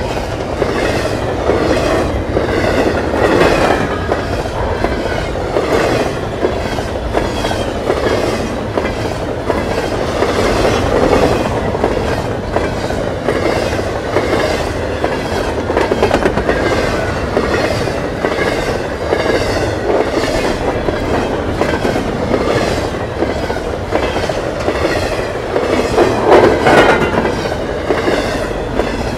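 Double-stack intermodal freight train rolling past at speed, its steel wheels clattering rhythmically over the rail joints in a steady, loud run of clicks and rumble.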